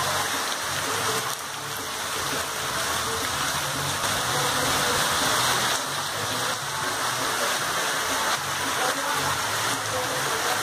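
Heavy rain pouring down on a cobbled street and roofs, a steady dense hiss.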